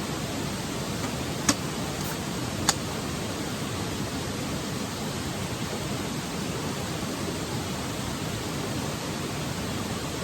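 Steady rushing noise with no pitch, broken twice by a sharp click, about a second and a half in and again a second later.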